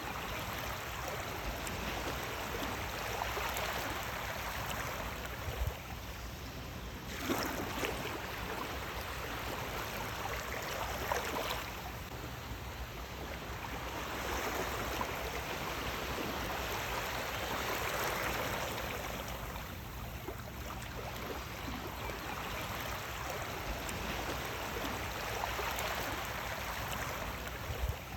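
Sea waves washing in: a continuous rush of water that swells and eases every several seconds, with a few sharper splashes.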